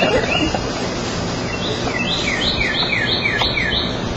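A songbird singing runs of quick repeated whistled notes, each slurring up then down, about three a second: a short run at the start and a longer one from about halfway through, over steady outdoor background noise.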